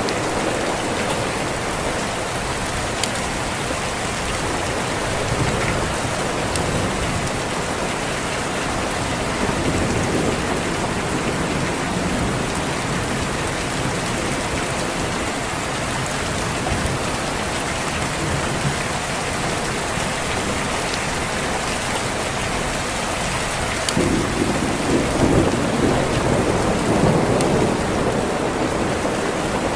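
Steady heavy rain, with a low roll of thunder swelling up near the end and lasting a few seconds.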